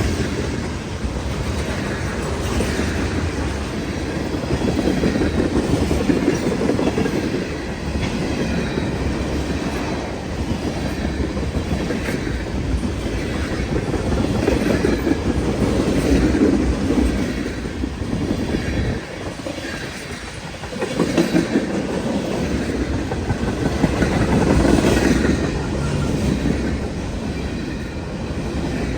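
Freight cars of a long CN mixed freight train rolling past, their wheels clacking over the rail joints above a steady rumble that swells and eases as the cars go by.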